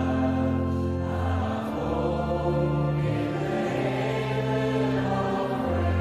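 Choral gospel music: slow, sustained chords held over a deep bass note that changes every second or two.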